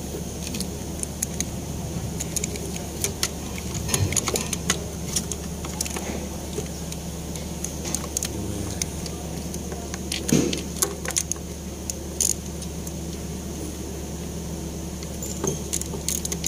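Scattered metallic clinks and rattles of tools and engine parts being handled, over a steady low hum and a faint steady high whine.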